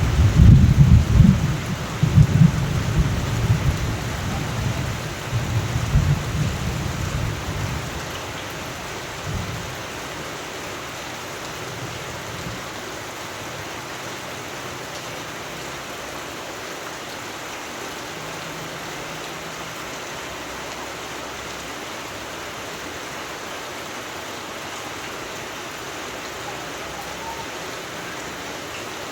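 A long roll of thunder over steady rain, rumbling loudest in the first few seconds and dying away about eight seconds in. After that only the steady hiss of rain remains.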